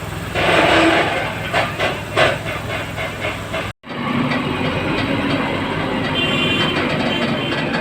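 Heavy vehicle machinery running with a steady low rumble. In the first half there is a rush of hissing noise followed by a run of clanks and knocks; after a brief break about halfway, the rumble carries on steadily.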